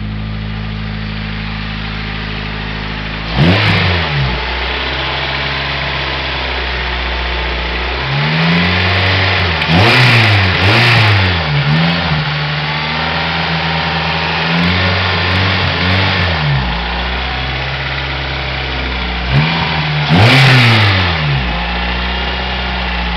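Honda four-cylinder engine in a Civic idling steadily, then revved in short blips: once about three seconds in, several times between about eight and sixteen seconds, and twice more near twenty seconds, each rev rising and falling back to idle.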